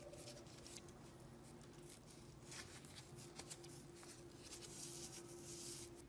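Faint, irregular scraping and rubbing from hand work, with a steady faint hum underneath.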